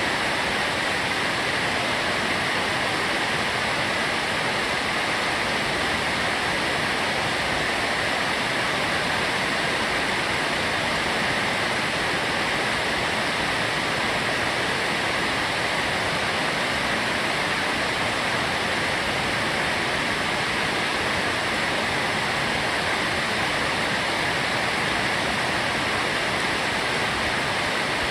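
Heavy rainstorm: a dense downpour making a steady, even hiss that does not change.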